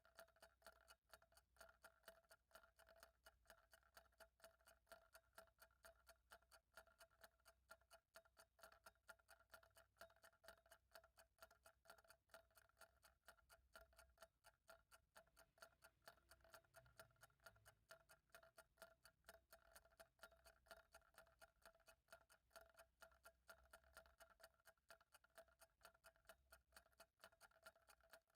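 Faint, steady ticking of a clock, the ticks coming at an even rate.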